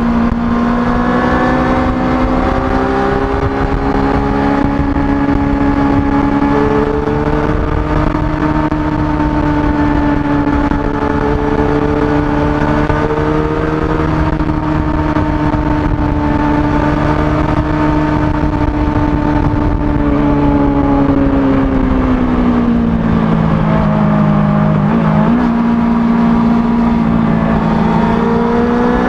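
Kawasaki ZX-25R's 250 cc inline-four engine through its stock exhaust, running at steady high revs under way over a constant rush of noise. About three-quarters of the way through the revs drop, then climb again near the end.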